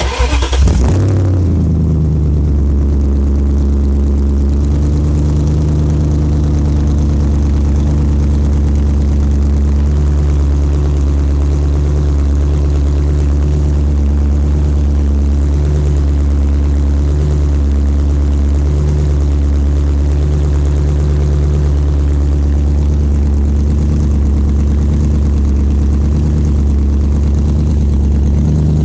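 BMW 735i's N62 V8 engine starting and then idling steadily, run with the exhaust disconnected behind the catalytic converters. The engine starts right at the beginning and catches within about a second.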